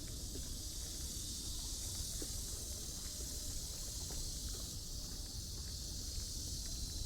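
Outdoor walking ambience: a steady high-pitched hiss of insects over a low background rumble, with faint footsteps.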